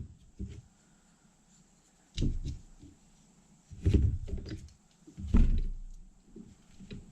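Three dull clunks of metal starter-motor parts being handled and set down on a workbench, about two, four and five and a half seconds in, with a few small clicks between.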